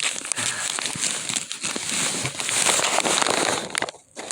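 Paper crinkling and rustling with many small crackles as a present is unwrapped; it stops abruptly near the end.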